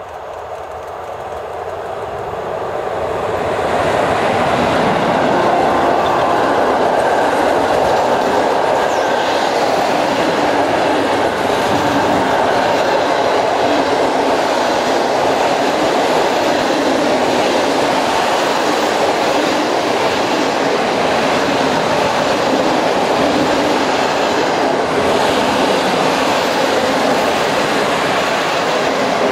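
ET22 electric locomotive approaching and passing, followed by a long train of loaded container wagons rolling by, their wheels running on the rails. The sound builds over the first few seconds as the locomotive draws near, then holds loud and steady as the wagons pass.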